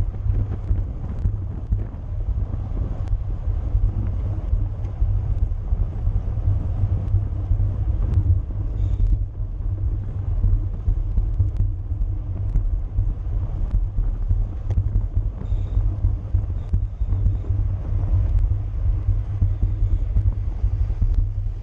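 Steady wind rumble on the microphone of a camera moving with a racing bicycle, with road and tyre noise underneath.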